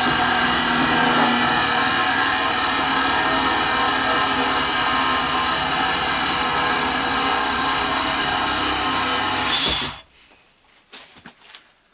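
Black & Decker No 605 six-inch, quarter-horsepower bench grinder running steadily on a test after its switch and mains lead were repaired. The sound stops abruptly about ten seconds in.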